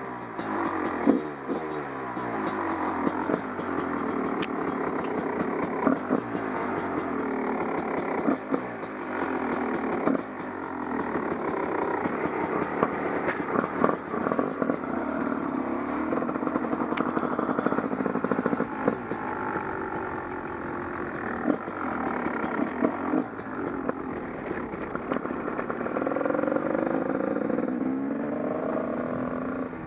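Husqvarna WR 300 two-stroke enduro motorcycle engine revving up and down as the bike is ridden, with wind buffeting on the action camera's microphone. Near the end the engine pitch climbs in a few rising revs.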